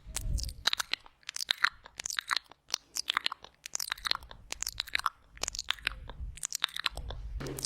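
Close-miked wet mouth sounds: quick clicks, smacks and licking noises, many in irregular succession, with a low rumble at the start and near the end.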